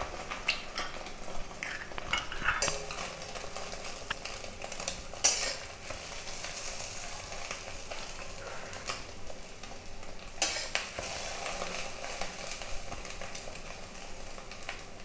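Egg omelet sizzling steadily as it fries in mustard oil in a kadai, with occasional sharp scrapes and knocks of a metal spatula and utensils against the pan, the loudest about five and ten seconds in.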